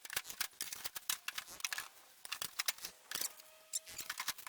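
Irregular light clicks, ticks and small knocks from hands and tools working the pickup's dash loose, in quick clusters with brief pauses about two seconds in and again past three seconds.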